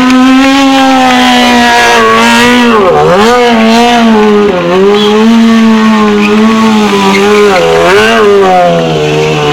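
Stunt motorcycle engine held at high revs. Its pitch dips briefly and climbs straight back three times: near the third second, about a second and a half later, and again near the end.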